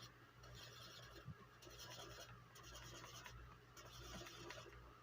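Faint scratchy strokes of a Sharpie marker colouring in a space on a paper chart, a run of short strokes about half a second each with brief pauses between.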